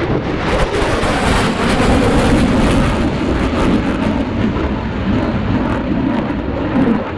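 Jet noise of an F/A-18 Super Hornet's twin turbofan engines, a loud, steady rush growing slightly louder about half a second in and easing near the end.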